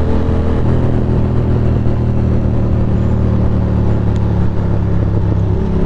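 Ducati Monster 620's air-cooled L-twin engine running at a steady cruise, its note shifting slightly about half a second in.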